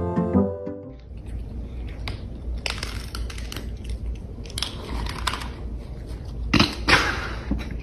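Music stops about a second in, then a low steady hum with several short bursts of crunching noise, the loudest near the end.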